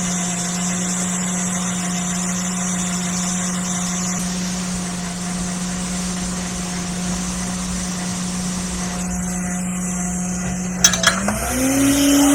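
Hot-air rework station blowing steadily with a constant fan hum while desoldering a MOSFET from a laptop motherboard. A couple of clicks come shortly before the end, then the fan pitch rises and grows louder.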